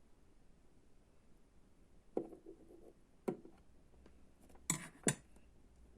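Four sharp knocks and clinks of small hard objects, the first followed by a brief rattle, the last two close together.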